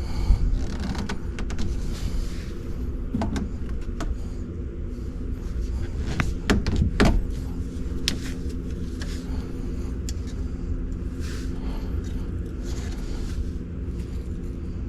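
A machine running with a steady low hum, with a few sharp clicks and knocks, two of them close together a little before the middle.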